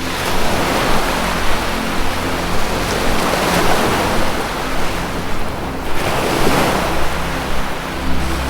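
Ocean surf washing in and out in repeated surges every two to three seconds, over a low steady music drone.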